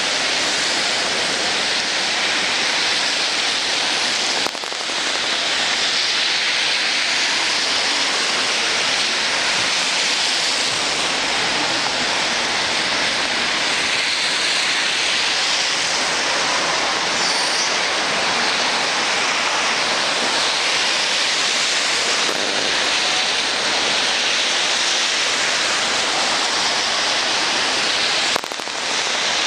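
Steady rain falling, an even hiss that dips briefly twice, about four seconds in and near the end.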